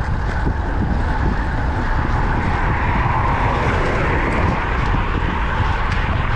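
Wind buffeting the microphone of a moving road bike, with road traffic noise; a vehicle swells past around the middle.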